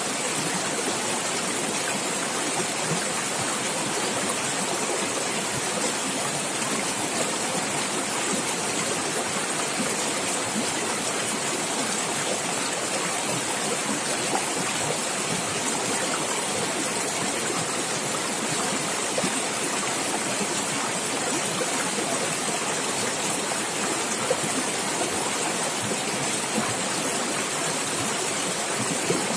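Running water of a stream gurgling and splashing steadily.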